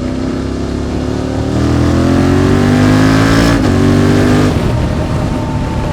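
QJ Motor SVT650X V-twin engine with an Arrow Racetech exhaust accelerating, its pitch climbing steadily. About three and a half seconds in it upshifts with a brief drop in pitch and climbs again. Near five seconds the throttle closes and the engine note falls away.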